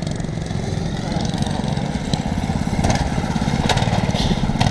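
Small single-cylinder mini bike engine running, a fast even putter that grows a little louder about halfway through.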